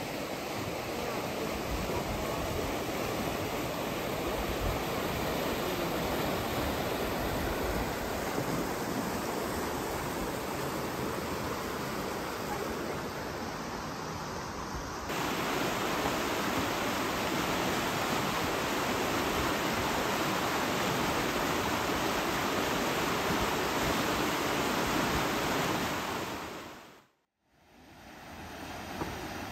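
Steady rush of a small creek waterfall running high after heavy rain, the water pouring over more like rapids than a drop. About halfway through the rushing jumps a little louder, and near the end it drops out briefly.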